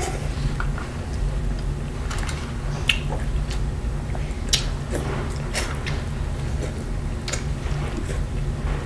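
A person chewing and biting food close to the microphone, eating a seafood boil of corn, potatoes and shrimp in butter sauce, with scattered short clicks over a steady low hum.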